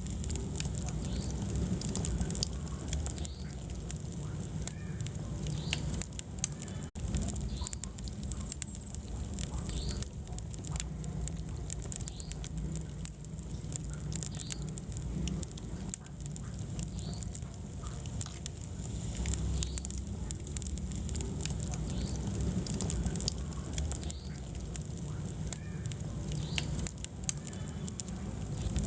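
Wood fire burning in a fireplace: a steady low rumble of flames with frequent sharp crackles and pops, and a momentary dropout about seven seconds in.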